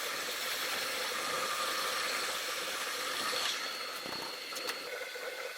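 Square steel bar being parted off on a lathe: a steady hissing cutting noise that eases off about three and a half seconds in, with a couple of faint ticks near the end.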